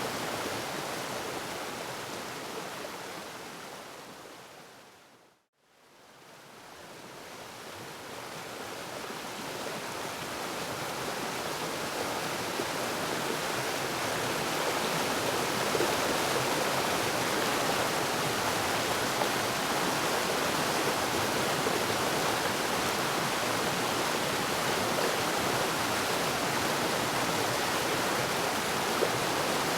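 Waterfall rushing as a steady, even roar of falling water. It fades out to brief silence about five seconds in, then fades gradually back up to full level.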